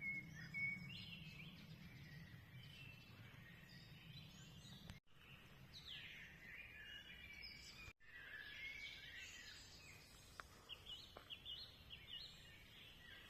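Faint songbird calls and song: many short chirps and whistled phrases from several birds, broken by two brief dropouts in the sound.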